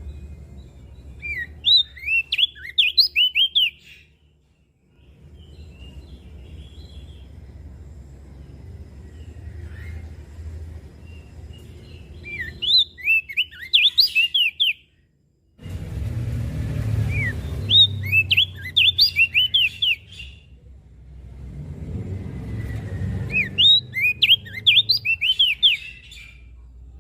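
Opior jambul (crested white-eye) singing four short bursts of fast, high twittering chirps, each lasting about two to three seconds, over a low background rumble.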